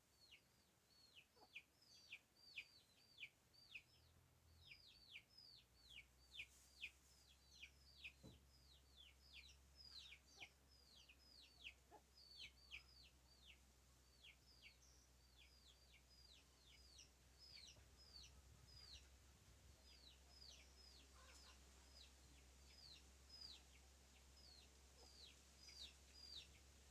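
Faint bird chirping: a long, quick series of short calls, each sliding downward in pitch, two to three a second.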